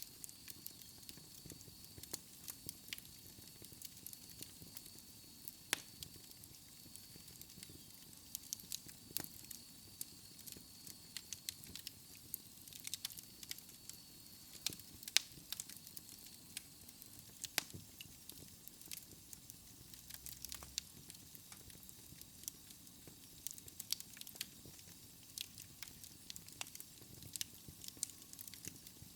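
Wood fire burning in a fireplace: a soft steady hiss with frequent irregular crackles and pops from the burning logs.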